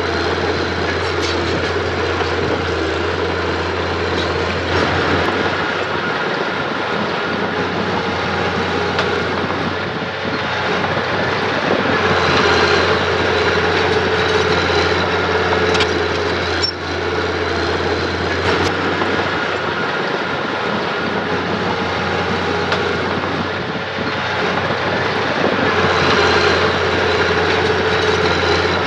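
Diesel engine of earthmoving machinery running steadily under varying load, swelling a little about halfway through and again near the end, with a few brief clicks.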